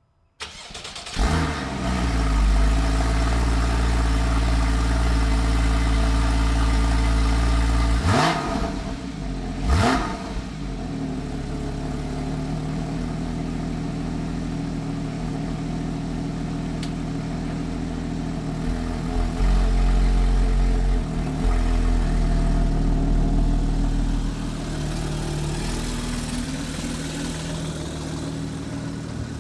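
A Porsche 981 Boxster S's naturally aspirated 3.4-litre flat-six, on its stock exhaust, is cold-started: a brief crank, then it catches and runs at a loud, fast cold idle. There are two quick throttle blips at about 8 and 10 seconds. It then settles into a steadier idle that eases a little lower near the end.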